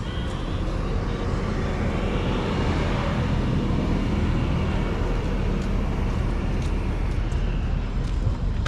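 A vehicle engine running steadily with a low rumble, the noise swelling for a few seconds in the middle.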